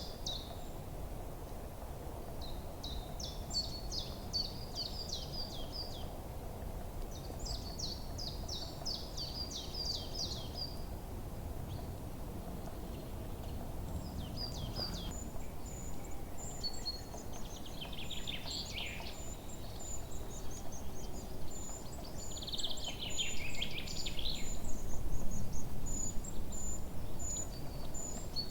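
Forest ambience: songbirds sing repeated rapid trilling phrases, and a thin, even run of very high chirps joins about halfway through. Underneath is a steady low background hiss and rumble that swells near the end.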